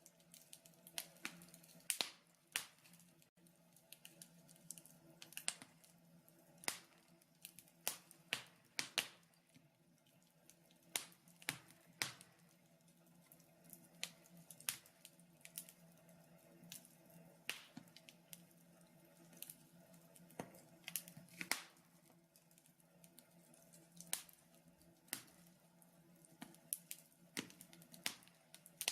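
Wood fire in a fireplace crackling: irregular sharp pops and snaps, several a second at times, over a faint low hum.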